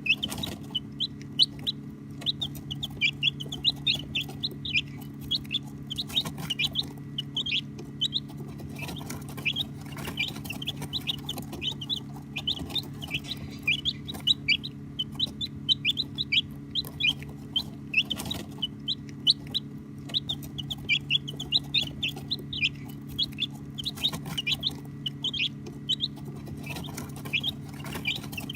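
A group of baby chicks peeping: many short, high chirps, constantly overlapping, over a steady low hum.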